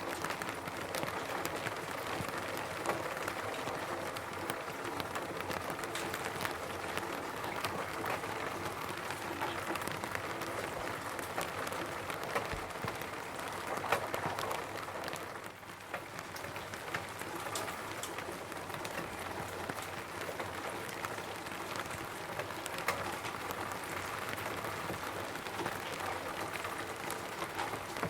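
Steady rain falling on a roof: many separate raindrop ticks over an even hiss, dipping briefly a little past halfway.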